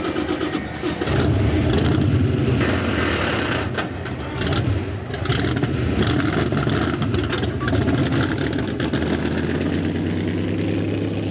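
Outlaw 4x4 pulling truck's engine running loud at high, steady revs, louder from about a second in, with a crackly exhaust edge.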